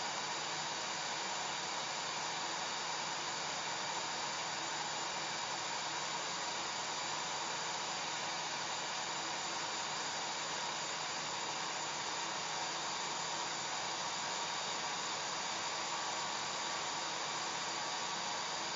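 Hair dryer running steadily: an even rushing hiss of air with a faint steady hum underneath.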